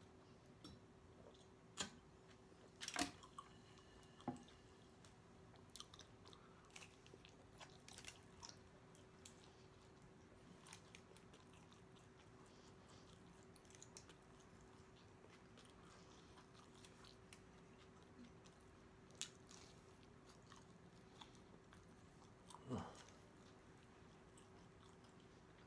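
Faint mouth sounds of a person eating and drinking: soft scattered clicks and smacks of chewing and swallowing, a few louder ones in the first few seconds, over a faint steady hum.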